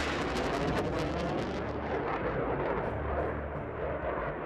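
Jet aircraft engine noise: a steady, noisy rush with some crackle, as a fast jet flies past.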